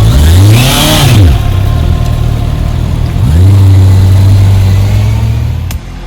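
Honda CBR650R inline-four motorcycle engine revving: the pitch rises and falls back once, then climbs again and holds steady before cutting off abruptly near the end.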